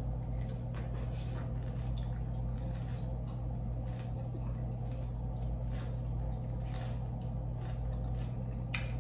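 Close-miked mouth sounds of someone chewing food: wet squishing and smacking in short, irregular clicks, over a steady low electrical hum.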